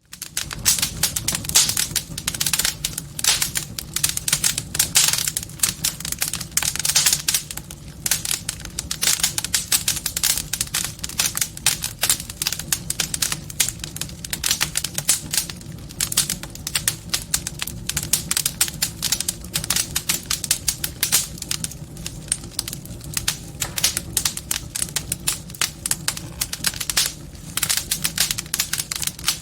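Wood fire in a fireplace crackling, with dense, irregular pops and snaps over a steady low sound of the burning.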